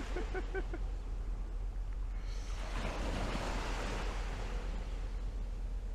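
Sea waves washing onto the beach, one swelling in about two seconds in, over a low rumble of wind on the microphone.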